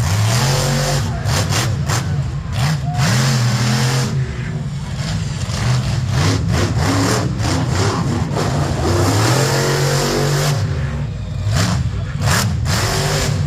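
Monster truck engine revving hard, its pitch climbing and dropping several times, with short sharp noises scattered through.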